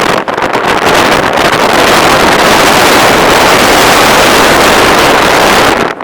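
Loud wind rushing and buffeting against the microphone from a moving car, choppy at first, then a steady roar that cuts off abruptly near the end.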